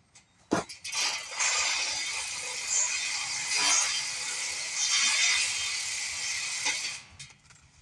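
A ratchet wrench being worked in a continuous run of rapid clicking for about six seconds, starting after a sharp click and stopping abruptly.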